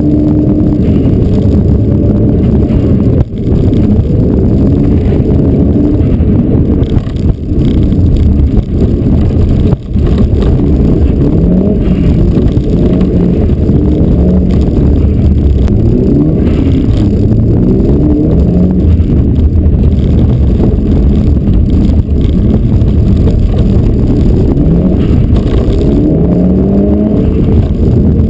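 Mitsubishi Lancer Evolution rally car's turbocharged 2.0-litre four-cylinder engine, heard from inside the cabin, running hard at stage pace. It is loud, and its pitch climbs again and again as it revs up through the gears.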